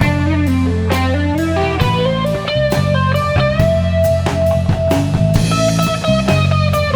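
Rock band playing an instrumental passage: electric guitar holding and bending long notes over a steady drum-kit beat.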